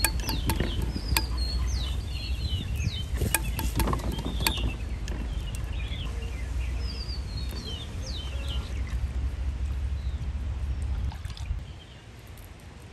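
Small birds chirping over and over, over a steady low rumble that drops away near the end, with a few sharp clicks and knocks in the first few seconds.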